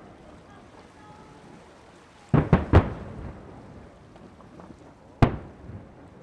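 Aerial fireworks shells bursting: three sharp bangs in quick succession about two and a half seconds in, then a single bang near the end, each trailing off in a rumble.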